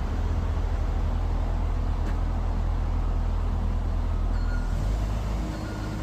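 A vehicle engine running, a loud low rumble that shifts in pitch about five seconds in.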